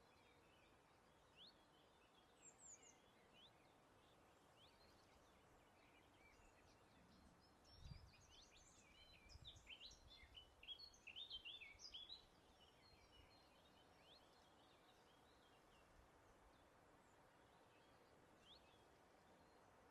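Faint birdsong: several small birds chirping and twittering in short, quick sweeping notes, busiest in a flurry from about eight to twelve seconds in, over a faint steady hiss of outdoor air. A brief low rumble comes about eight seconds in.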